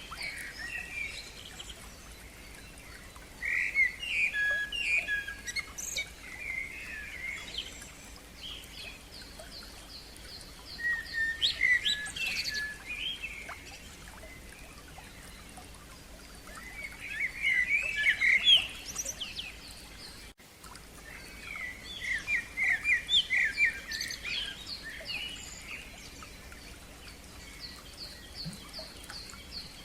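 A songbird singing in short phrases of varied chirps and trills, separated by pauses of a few seconds, some with quick runs of repeated high notes.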